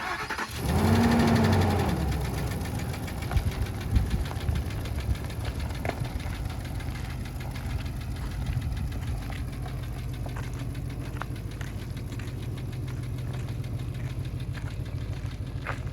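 Ford F250 pickup engine starting, flaring up in revs briefly, then settling to a steady idle, with a few sharp clicks.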